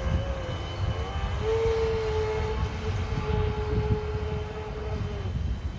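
Electric motor of a radio-controlled boat whining at a steady pitch, stepping up about a second in and cutting off about five seconds in, over a low rumble.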